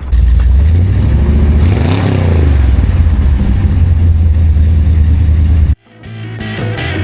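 Classic car engine running with a deep, loud rumble, blipped once about two seconds in so the pitch rises and falls back to idle. It cuts off suddenly near the end, and music starts.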